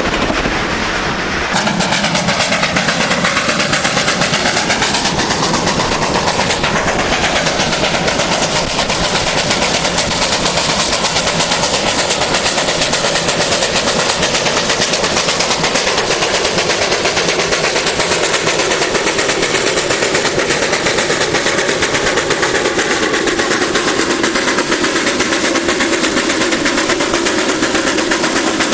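Steam train's carriages and locomotive rolling close by, a steady, rapid rattle of steel wheels on the rails.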